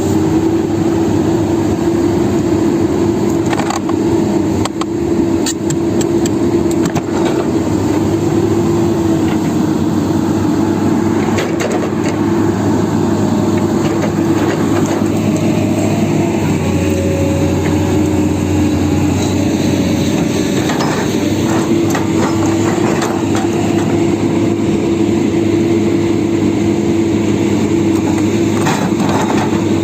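Excavator's diesel engine running steadily, its pitch shifting slightly now and then, with scattered sharp metallic clanks.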